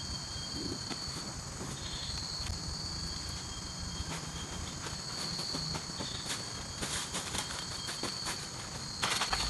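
Tropical forest insect chorus, a steady high-pitched shrilling, with short crackling and rustling clicks joining in from about seven seconds in and getting louder near the end.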